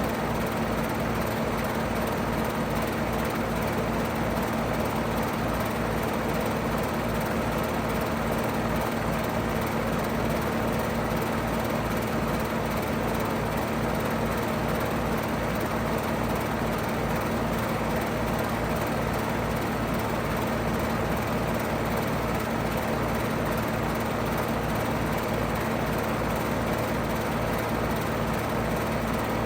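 2009 Payne PH13 5-ton heat pump running steadily in heat mode: an even hum with a constant low tone under a steady rush of air.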